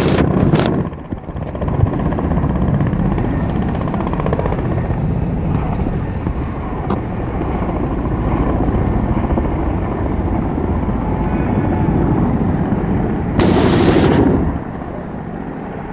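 Helicopter flying overhead: steady rotor and turbine noise, with a short louder rush of noise about thirteen seconds in.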